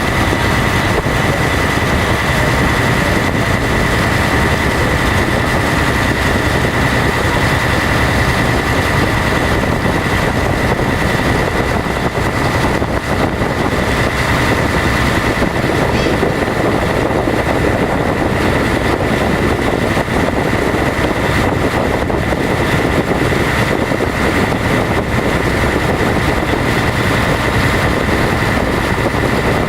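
Passenger boat's engine running steadily, heard on board, with a constant high whine over a broad rumble.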